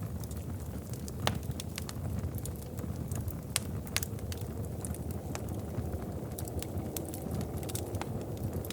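Wood fire crackling and popping in a fireplace, with irregular sharp snaps over a steady low rumble.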